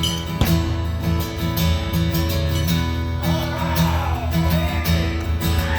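Acoustic guitar strummed in a steady rhythm, playing a short instrumental passage between sung lines of a live country-folk song.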